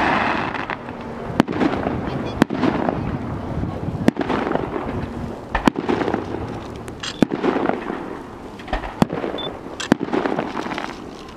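Aerial firework shells bursting overhead, with sharp bangs every second or so, sometimes two close together, over a continuous rumbling, crackling haze.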